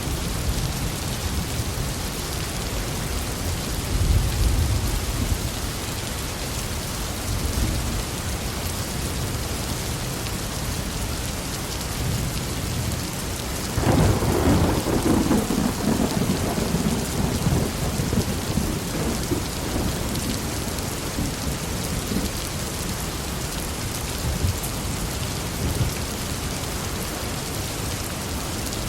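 Heavy rain falling steadily, with thunder: a low rumble about four seconds in, then a sharp crack about halfway through that rolls on for several seconds.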